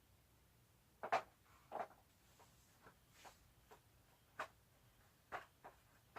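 A handful of light clicks and knocks, the loudest about a second in, from small parts being handled and fitted while lining up a Goped scooter's fuel tank mounting.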